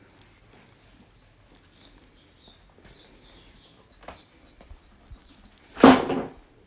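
A small bird chirping: quick, short, high notes repeating over and over. A brief, loud noise cuts in near the end.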